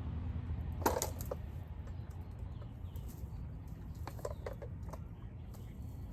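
A few scattered light clicks and knocks, the sharpest about a second in and a small cluster around four seconds in, over a low steady rumble.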